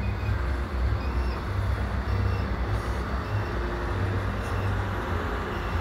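Railcars of a freight train rolling past: a steady low rumble of wheels on the rails.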